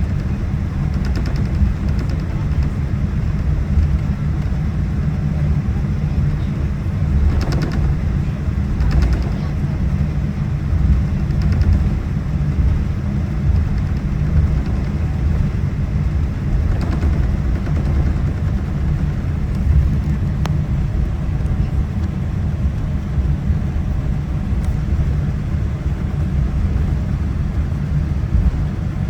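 Cabin noise inside a Boeing 787-9 airliner on the ground: a steady low rumble from the engines and aircraft systems, with no change in level.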